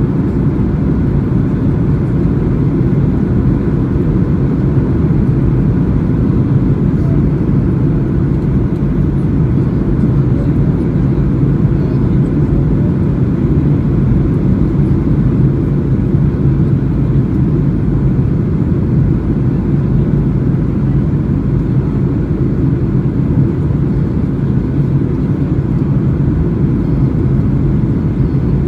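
Steady low drone of a Boeing 737's engines and airflow heard inside the passenger cabin in flight, with a faint constant hum under it.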